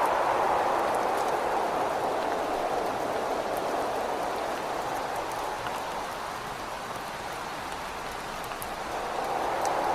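Rain beating on a window with wind, a steady rush with scattered drop ticks; it eases off through the middle and swells again near the end like a gust.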